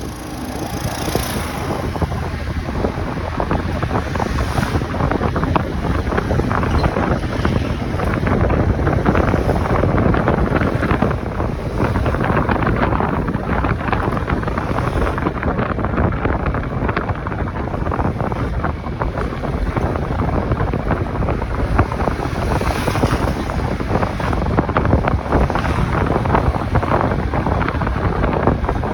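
Wind rushing over the microphone of a moving motorcycle, with the motorcycle's engine and road noise underneath, as a steady loud rush.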